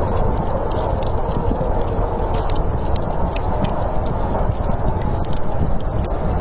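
Wood fire crackling, with many irregular sharp pops and snaps over a steady low rush of storm wind.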